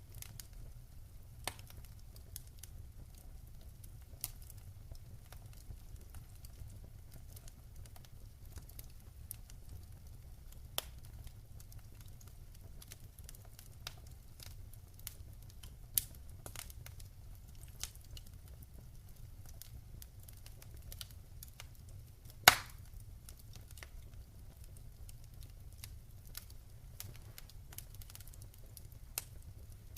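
Wood fire crackling in a fireplace: scattered sharp pops and snaps over a low steady rumble, with one much louder pop about two-thirds of the way through.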